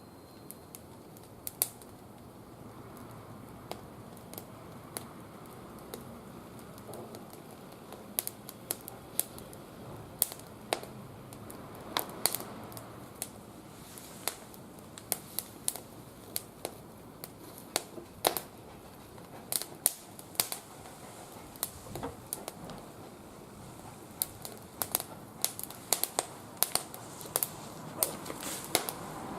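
Wood fire crackling, with sharp irregular pops that come more often in the second half.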